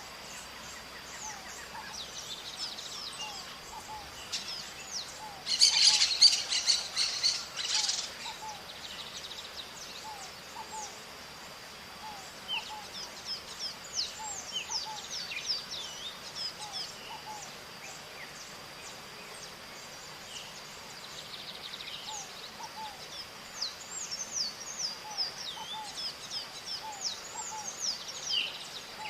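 Maritacas (small Brazilian parrots) calling, with a loud flurry of harsh calls about six seconds in and many short, high, downward-sliding calls through the rest.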